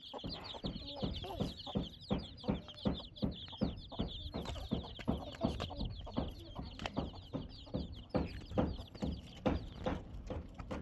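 Chickens clucking, short clucks about two a second, over rapid, continuous high-pitched chirping.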